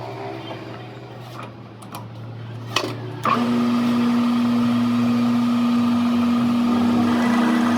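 A machine's motor humming low, then a click, and about three seconds in it switches on and runs loudly and steadily with a constant pitch.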